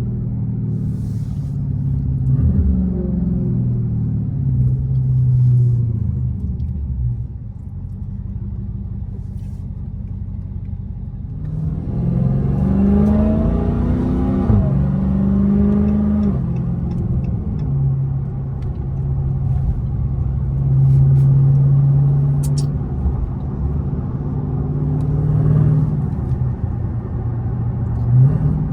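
Dodge Charger Hellcat's supercharged 6.2-litre V8 running through a mid-muffler-delete exhaust, under way: a steady drone with one pull about twelve seconds in, where the engine note rises, then settles back to a steady cruising drone.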